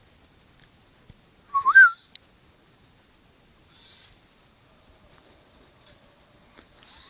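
A bird's single short whistled call about one and a half seconds in, rising then dipping slightly. Faint hissy rustles come a few times around it.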